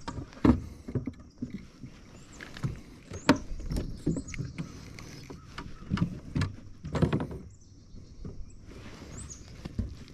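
Irregular knocks and splashy bursts of water against a fishing kayak: gear bumping the hull and water moving around the boat.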